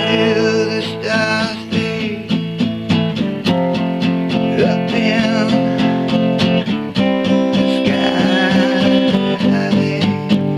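Acoustic guitar strummed in a steady rhythm, the chords changing about every three and a half seconds.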